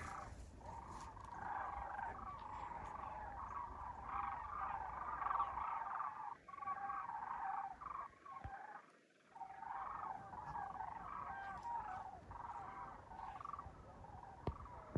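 A flock of migrating birds calling, many overlapping calls at once, thinning briefly about halfway through.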